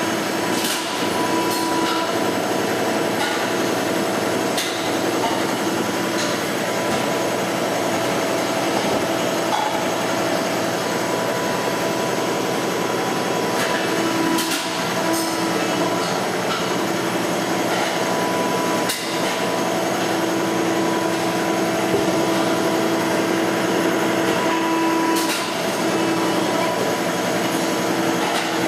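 Supercharged 357 cubic inch small block Chevy V8 with a 6-71 blower running steadily, a dense mechanical clatter with a few sharp ticks through it.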